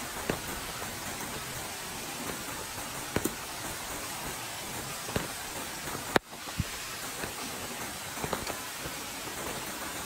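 Steady hiss of light rain, with scattered small clicks of drops and one sharp click about six seconds in.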